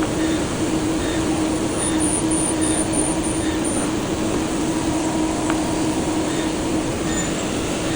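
CNC machine running: a steady mechanical hum with one held tone, faint regular ticks about every 0.8 seconds, and a string of short high-pitched beeps about two to four seconds in.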